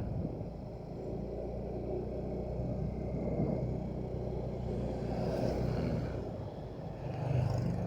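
Motorcycle engine running steadily while riding, with a low hum and road noise; the noise swells briefly about five seconds in.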